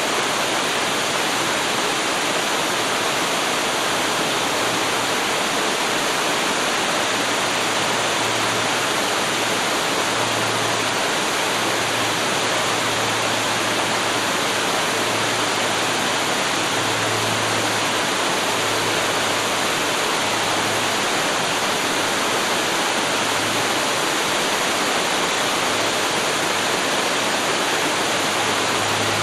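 Waterfall rushing: a steady, even roar of falling water, with a faint low hum that swells and fades underneath.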